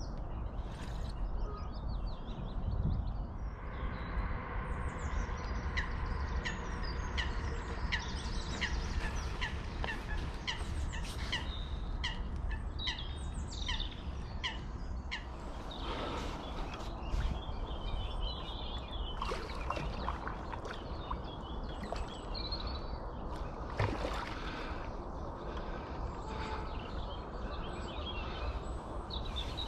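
Small birds chirping and singing, with a long run of quick repeated high notes between about 4 and 15 seconds, over a steady low rumble. A few sharp clicks come later.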